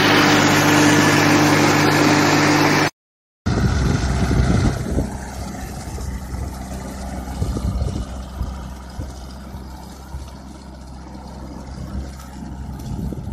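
Tractor engine running steadily at a constant speed, cut off abruptly about three seconds in. After a brief silence comes a quieter, uneven low rumble with wind buffeting the microphone.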